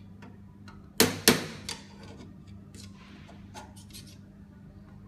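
Metal Hydramatic gearbox parts clicking as they are handled and a circlip is fitted: two sharp clicks close together about a second in, then a few lighter ticks, over a steady low hum.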